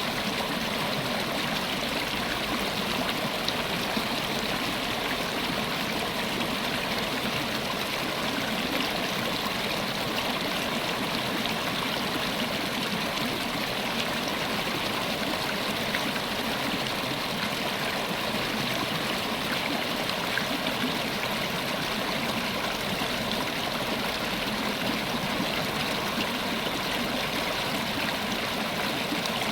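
River water flowing and babbling over stones, a steady even rush.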